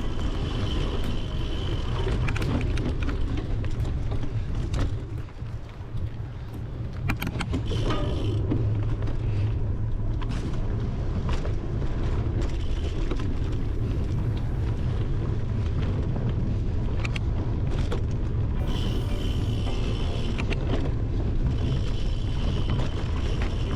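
Bicycle ridden over gravel and dirt, heard from a handlebar-mounted camera: wind rumbling on the microphone, tyre crunch, and frequent rattling clicks and knocks from the bike and mount over bumps. It eases briefly about five seconds in, then picks up again.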